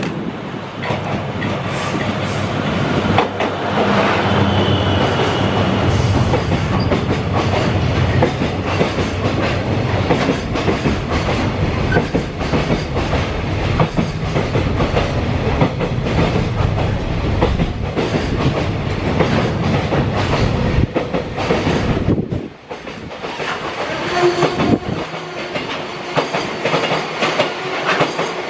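A train passing close by, its wheels clattering over rail joints. About 22 seconds in the sound drops sharply, then lighter rail noise carries on.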